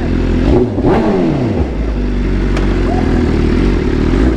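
BMW S1000RR's inline-four engine revved on request: the revs fall back quickly from a blip in the first second or so, then it idles steadily.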